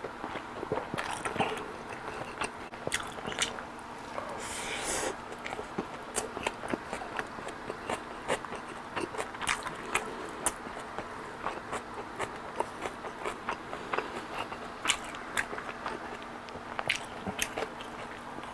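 Close-miked chewing and lip-smacking as king crab meat is eaten, with many small wet clicks, then a spoon scraping rice out of the crab's shell. A brief hiss comes about four and a half seconds in.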